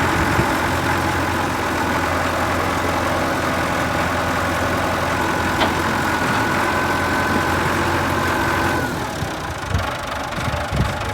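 Allis-Chalmers 6060 tractor's diesel engine idling steadily. About nine seconds in, the sound drops a little and changes.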